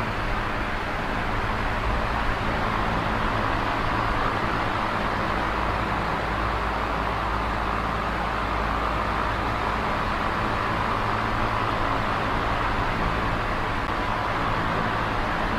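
Small oscillating electric fan running steadily: an even whoosh of moving air over a low motor hum, the airflow swelling and easing slowly as the head sweeps.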